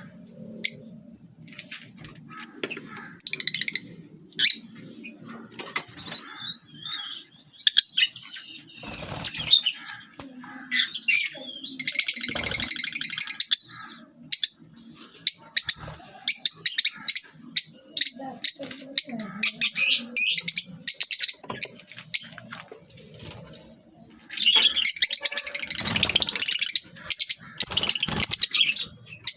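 A pair of parrots calling: repeated short, sharp high chirps, broken twice by longer runs of rapid, dense chattering.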